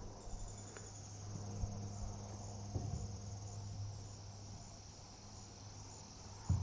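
Insects trilling steadily and faintly in a high, fine-pulsed drone, over a low steady hum, with a few light knocks, the sharpest one near the end.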